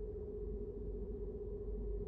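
Car running on the road, heard from inside the cabin: a steady low rumble of engine and road noise with a constant hum.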